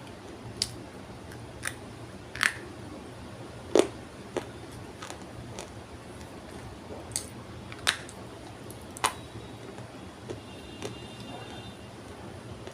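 Dry multani mitti (Fuller's earth) clay being crunched, giving about ten sharp, irregular cracks; the loudest comes about four seconds in.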